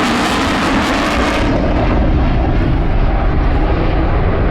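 Eurofighter Typhoon's twin EJ200 jet engines, loud and steady as the jet flies overhead. About a second and a half in, the high hiss falls away and a deeper rumble takes over.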